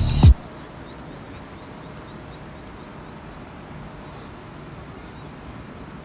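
Background music cuts off just after the start, leaving steady low outdoor background noise, with faint high chirps repeating about three times a second for a couple of seconds.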